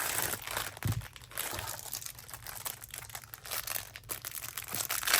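Packaging being unwrapped and handled, an irregular crinkling with small crackles, and a soft thump about a second in.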